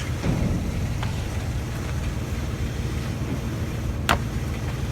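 Vehicle engine running with a steady low rumble, and a single sharp click about four seconds in.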